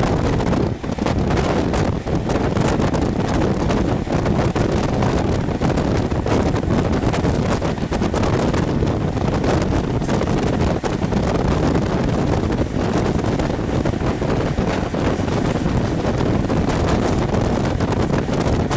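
Wind buffeting the microphone held out of a moving passenger train's window, over the steady rumble of the train running along the track.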